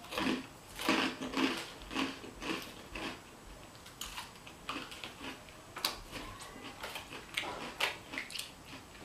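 Close-up chewing and crunching of salad with a crouton, in crackly bites about twice a second at first and softer later. A few sharp clicks of a metal fork against a plastic bowl.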